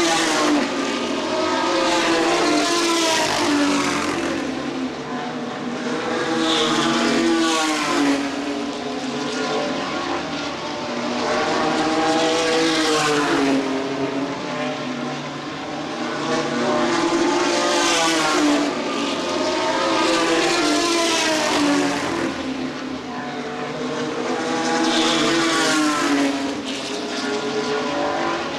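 A field of ARCA Truck Series race trucks running at racing speed on an oval, their engines rising and falling in pitch as trucks come past one after another every few seconds.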